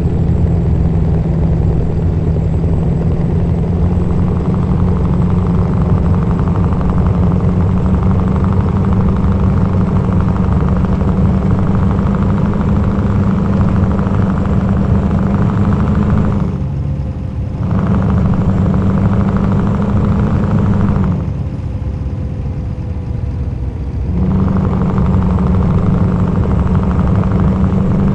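Scania R-series truck's V8 diesel engine running, its deep note climbing slowly in pitch. The note falls away twice, briefly about two-thirds of the way through and for a few seconds near the end, then comes back.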